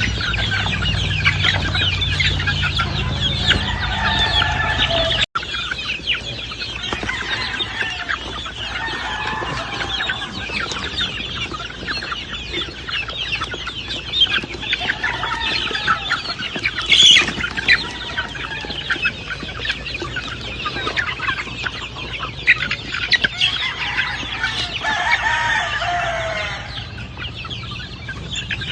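A flock of free-range chickens clucking and calling over one another, with a few longer, drawn-out calls that fall in pitch, typical of roosters crowing.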